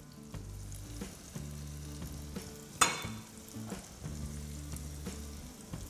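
Frittata egg mixture frying with a faint sizzle in a pan on the hob, with a soft background music bed of low held notes underneath. A single brief sharp click about three seconds in.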